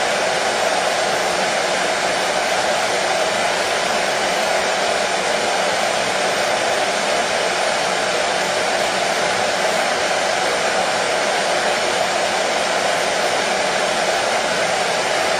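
Hair dryer running steadily: a constant, even rush of blown air with no change in pitch or level, fullest in the middle range.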